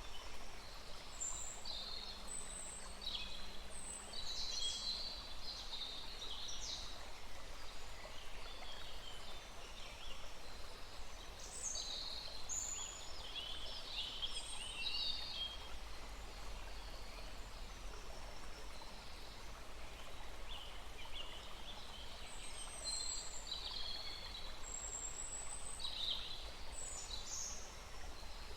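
Songbirds calling and chirping in short high phrases, over a steady low rush of a small stream.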